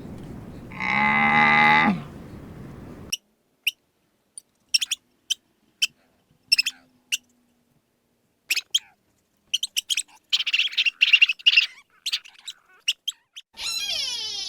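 A cow moos once about a second in, the pitch dropping at the end. After a sudden cut, a small bird gives short separate chirps with a quick trill in the middle, and near the end a different higher cry with wavering pitch begins.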